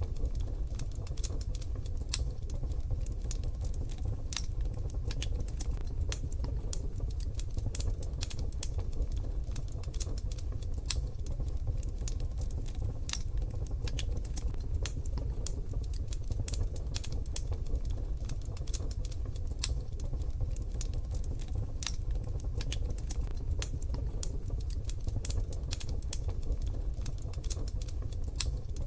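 Wood fire crackling in a wood-burning stove: a dense, irregular run of sharp little pops and clicks over a steady low rumble.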